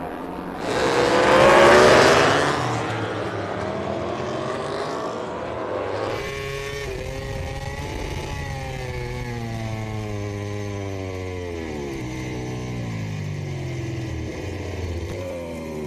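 MotoGP race motorcycles' engines at full speed: a loud rushing swell about a second in as bikes pass close, then engines climbing in pitch through the gears with short drops at each upshift.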